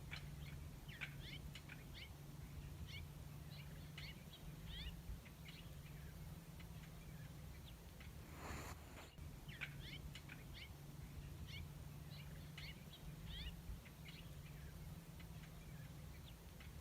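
A small songbird giving quick series of short, high, sliding chirps in two bouts, one near the start and one about halfway through, over a faint steady low hum.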